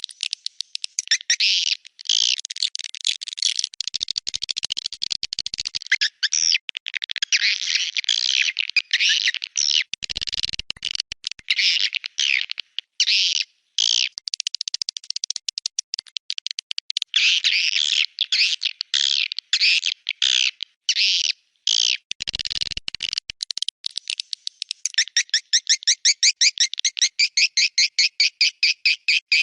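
Swiftlet calls played as a swiftlet-house lure sound: dense, overlapping chirping and twittering with brief gaps. About 25 seconds in, it turns into a fast, even run of chirps, about five a second.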